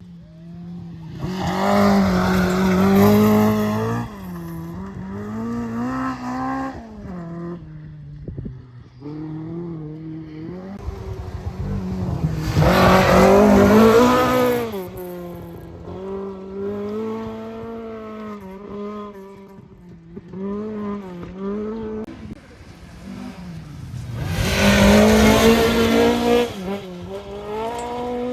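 Rally car engines at full throttle on a stage, the engine note climbing and dropping through the gears. The sound swells loud three times, about 2, 13 and 25 seconds in, as cars come close past.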